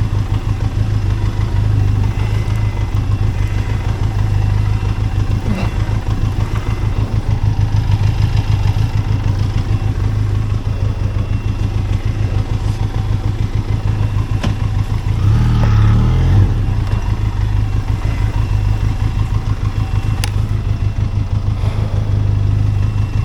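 Benelli TRK 502X motorcycle's parallel-twin engine running steadily, with a brief rise in level about sixteen seconds in.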